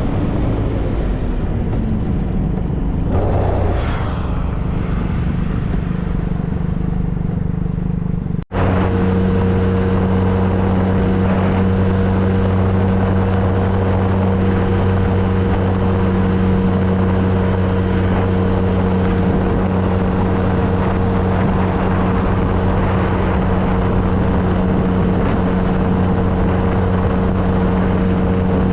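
2013 Triumph Trophy SE's three-cylinder engine running under way with wind and road noise. The engine note falls over the first couple of seconds. After a brief dropout about eight seconds in, it settles into a steady, unchanging drone at constant speed.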